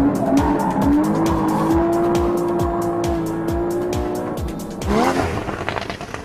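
Porsche Cayman GTS's 3.4-litre flat-six engine held at high revs, its note climbing slowly, then a quick rising sweep of revs about five seconds in. Backing music with a steady beat runs underneath.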